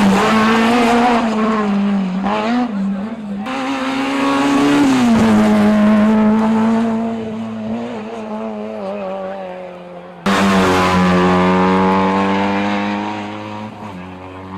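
Rally car engines running hard on a stage, the engine note rising and falling as the drivers work the throttle. Twice the sound cuts suddenly to another car. Near the end one engine's pitch drops slowly as the car slows or moves away.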